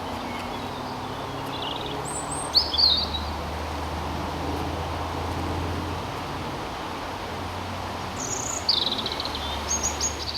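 Songbirds singing in short, scattered phrases, twice, over a steady low rumble of background noise.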